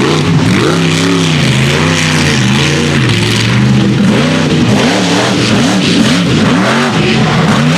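Mega truck engine revving hard while racing, its pitch rising and falling again and again as the throttle is worked.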